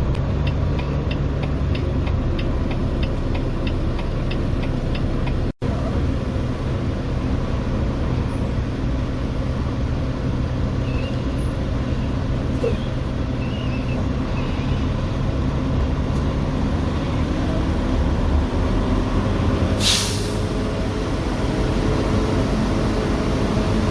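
Semi truck's diesel engine running steadily, heard from the cab, with a quick regular ticking over the first five seconds. About twenty seconds in, one short sharp hiss of air from the truck's air brakes.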